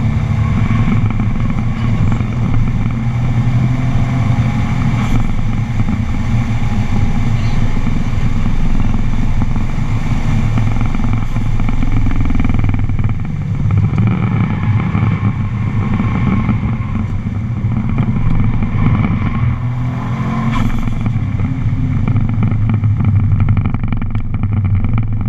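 Subaru's flat-four engine running hard at track speed, heard from inside the cabin, its note rising and falling with the throttle, over steady wind and road noise.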